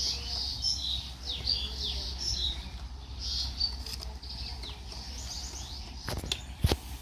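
Small birds chirping in quick, overlapping high calls that thin out after about five seconds, followed by a few sharp clicks near the end.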